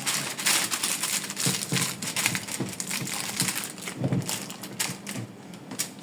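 Aluminium foil crinkling and crackling in irregular bursts as it is folded and pressed around the fish, easing off near the end.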